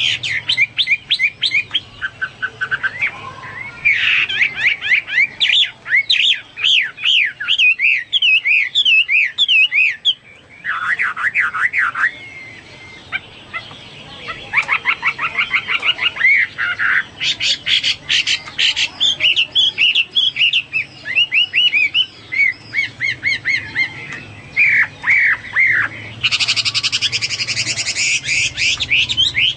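Chinese hwamei (melodious laughingthrush) singing a loud, varied song of fast repeated whistled notes and trills, with a harsh rasping phrase near the end.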